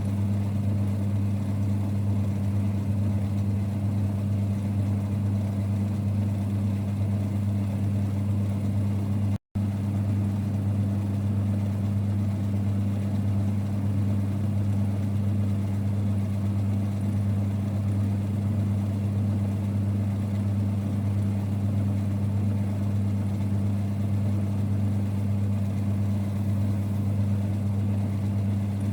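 A vintage 1946 Boxford lathe running steadily with a constant low hum. The sound drops out completely for a split second about nine and a half seconds in.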